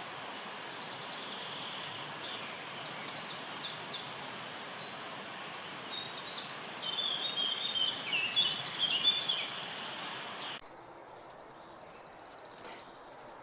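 Songbirds singing in quick trills and chirps over a steady rushing hiss. About ten and a half seconds in, the hiss drops away abruptly and a single high trill follows.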